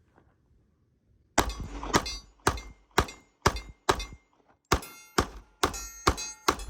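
FN 545 .45 ACP pistol firing a steady string of about eleven shots, roughly two a second, starting about a second and a half in, with a short break around the middle. A faint ringing tone hangs after the later shots.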